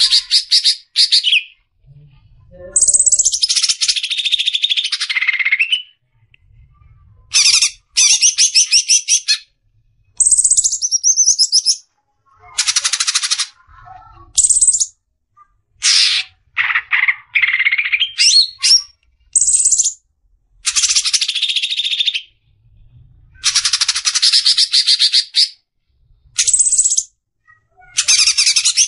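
Cucak ijo (greater green leafbird) singing in the fast, aggressive 'besetan' style: a rapid series of bursts of trilled chattering and whistles, each lasting up to about three seconds, with short pauses between.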